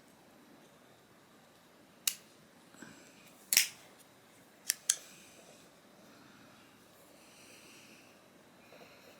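Five sharp small clicks and taps of metal parts and tools, clustered in the middle of the stretch, the loudest about three and a half seconds in, as the pocket clip is fitted onto a folding knife's handle.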